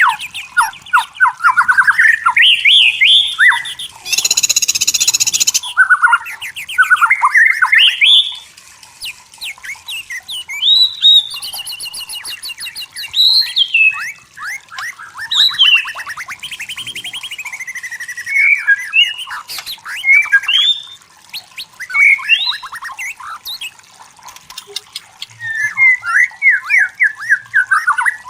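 White-rumped shama singing a long, varied song of rapid whistled phrases, trills and sweeping notes, with a harsh, rasping burst about four seconds in.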